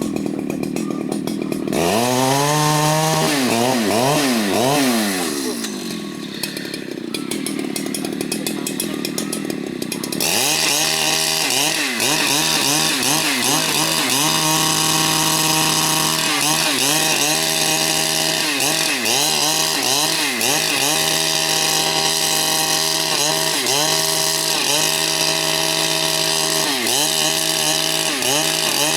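Large two-stroke Husqvarna chainsaw idling, revving up and falling back, then idling again. From about ten seconds in it runs at full throttle, its pitch dipping and recovering over and over as the chain bites into the wood.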